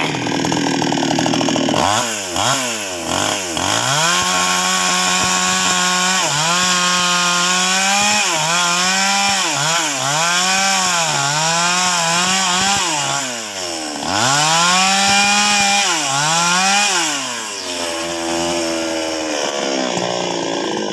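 NWESST 628 two-stroke chainsaw cutting through a sengon log at high revs, its pitch sagging under load and recovering again and again as the chain bites. Near the end it drops back to a low idle.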